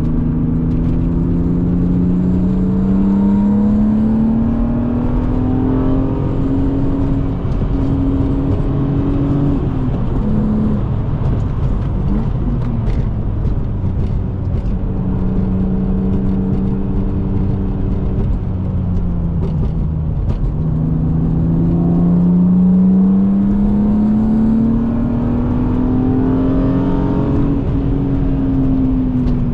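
BMW E36 M3 straight-six engine heard from inside the car under hard acceleration, its pitch climbing for several seconds, then lifting off about ten seconds in. After a steadier stretch it climbs again from about twenty seconds in and eases off near the end.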